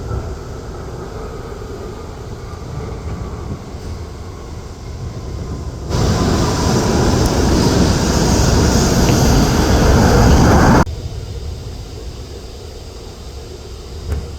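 Jet airliner engine noise, a steady low rumble; about six seconds in a much louder, brighter stretch of engine noise begins abruptly and cuts off just as suddenly about five seconds later.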